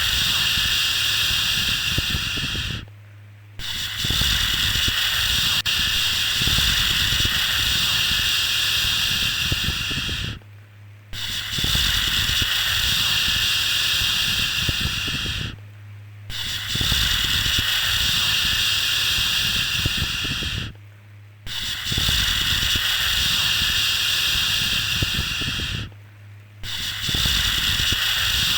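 Baby-soothing 'shhh' shushing sound, in long strokes of about five seconds, each broken by a short pause, five pauses in all. A low steady hum runs underneath.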